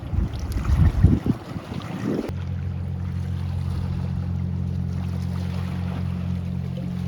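Wind buffeting the microphone, then a steady low engine hum that starts suddenly about two seconds in.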